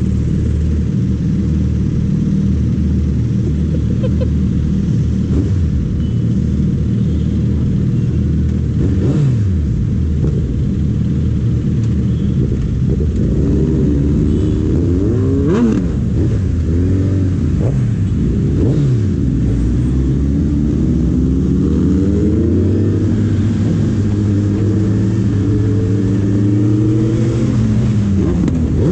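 Suzuki Hayabusa's inline-four engine idling in slow traffic, then revving up and falling back again and again from about halfway as the bike pulls away and shifts through the gears. Other motorcycle and car engines run around it.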